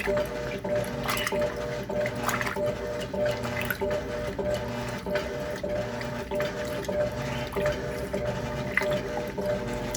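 Electrolux LTC10 top-loading washing machine agitating a full load in high water: a steady motor hum over a rhythmic churning and sloshing of water and clothes.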